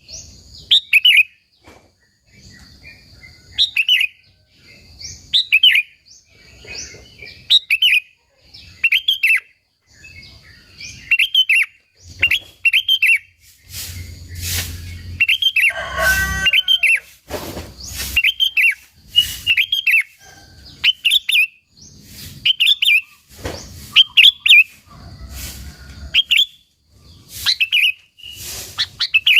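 Sooty-headed bulbul (kutilang) singing vigorously: short, loud chirping phrases repeated about once a second, with scattered short clicks in between.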